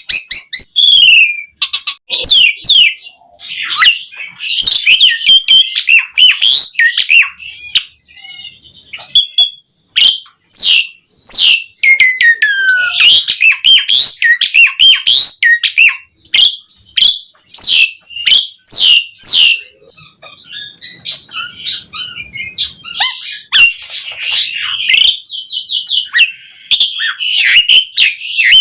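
Asian pied starling (jalak suren) in full song: a continuous, varied stream of whistles, quick sweeping notes and harsh chattering phrases, broken by brief pauses.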